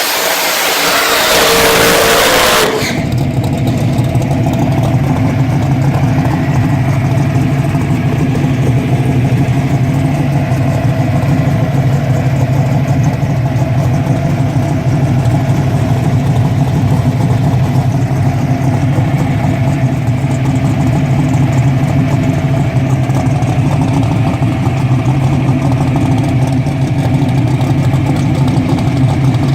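A loud rush of noise for the first two to three seconds, then a drag car's engine idling steadily.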